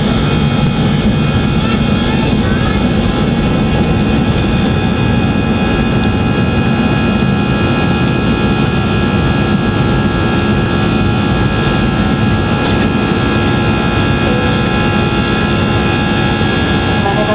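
Airbus jet engines heard from inside the passenger cabin during the climb after takeoff: a steady, loud engine noise with several steady tones running through it.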